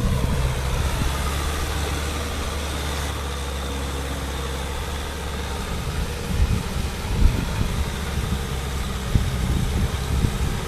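Kubota M6040 tractor's diesel engine running steadily at low revs. From about the middle on, irregular low thumps and knocks sound over it.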